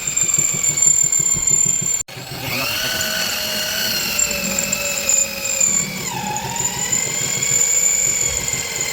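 Handheld power tool running with a high whine; after a brief break its motor pitch rises and holds, then drops again about six seconds in.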